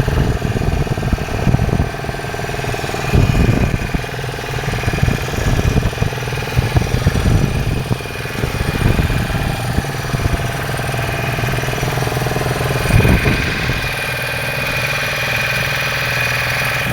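Fishing boat's engine running steadily, with occasional thumps over it.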